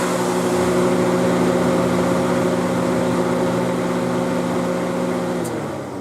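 Nissan Elgrand (E51) running with its air conditioning on: a steady hum of several tones that winds down and stops about five and a half seconds in, as it is switched off.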